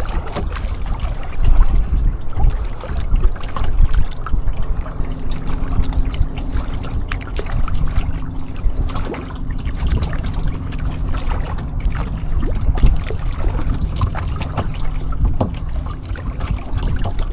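Kayak paddle strokes: the paddle blades dipping into and pulling through the water, with water trickling and dripping off them, over a heavy low rumble.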